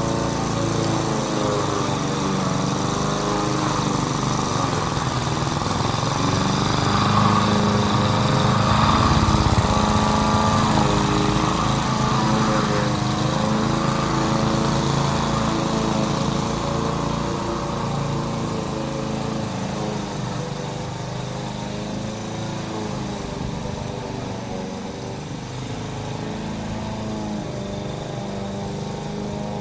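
Engine of a grass-cutting machine running steadily, its pitch wavering gently up and down; slightly louder a little past a quarter of the way in.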